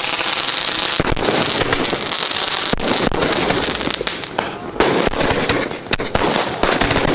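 Firecrackers going off in a rapid, continuous crackle of many sharp pops over a steady hissing fizz.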